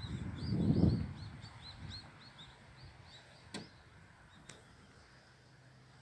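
A small bird calling a quick run of short, high chirps, about three or four a second, fading out after about two and a half seconds. A low rumble is loudest in the first second, and two sharp clicks come near the middle.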